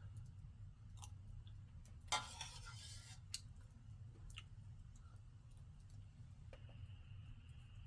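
A few sparse, sharp clicks and light knocks over a faint low hum. The loudest comes about two seconds in. A faint steady high tone begins about six and a half seconds in.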